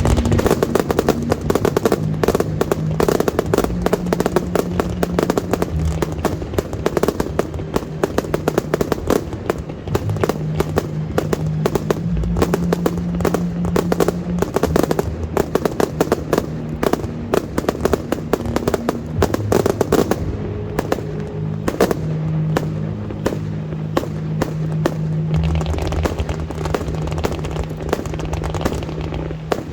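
Fireworks show: a dense, rapid run of sharp reports, many a second, thinning out about twenty seconds in. Under them plays the show's music, with sustained low notes.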